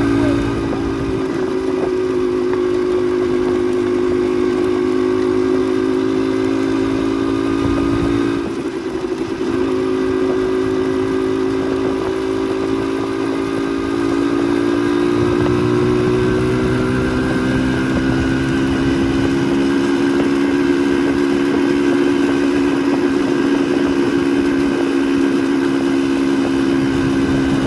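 Motorcycle engine running under way at a steady pace. The engine sound dips briefly about nine seconds in, then climbs slowly in pitch as the bike picks up speed.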